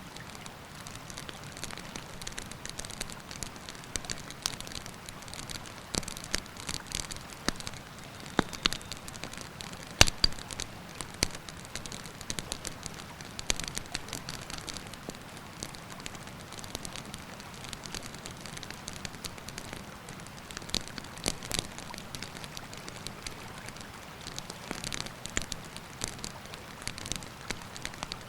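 Wood campfire crackling and popping, with one loud pop about ten seconds in, over a steady rushing hiss of river water.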